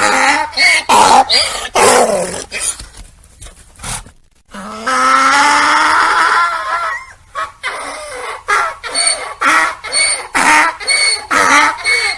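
Donkey braying: rapid repeated hee-haw cycles, a short break about four seconds in, then one long drawn-out call, then more rapid braying.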